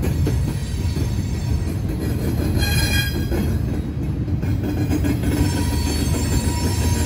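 Freight train of gondola cars rolling past: steady rumble of steel wheels on the rails, with a brief high tone about three seconds in.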